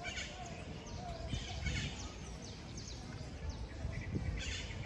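Small birds chirping in the park trees in several short bursts of quick, high notes, over a low steady outdoor rumble.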